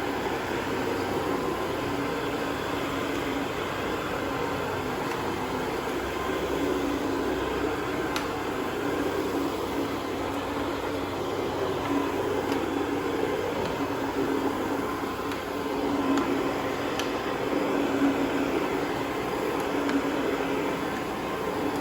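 Carpet cleaning machine running with a steady hum.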